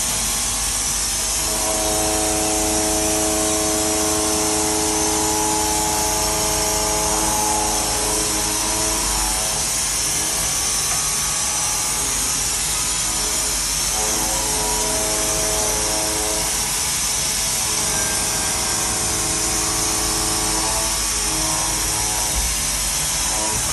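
5-axis CNC milling machine cutting a part: a steady, loud hiss throughout, with a ringing tone from the cutter in two long spells, from about a second and a half to nine seconds in and again from about fourteen to twenty-two seconds in.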